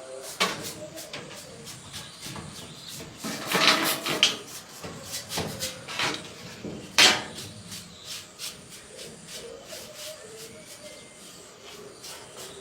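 Scattered knocks and clicks of parts and tools being handled, with a cluster of clatter about four seconds in and the sharpest knock about seven seconds in.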